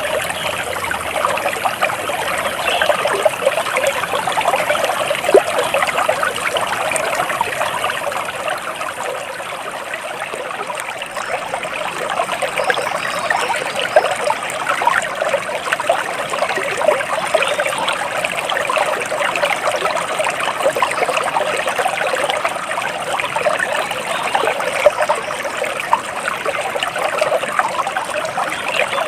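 Small stream of water trickling and babbling steadily, a continuous splashy burble full of tiny splashes.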